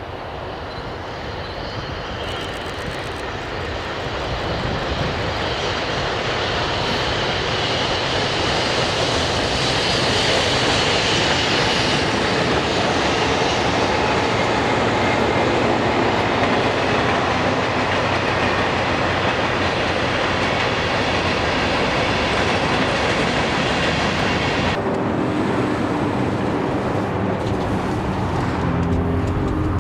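A train rolling past: the rolling noise builds over the first ten seconds and then stays loud. Near the end the high hiss drops away, leaving a lower, steady hum.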